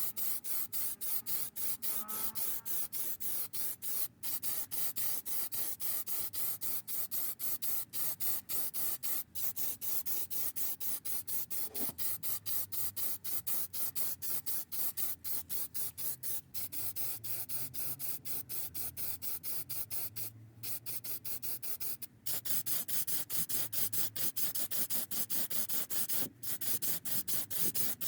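Rapid back-and-forth rubbing strokes, about four a second, each a short hissing scrape, with a few brief pauses.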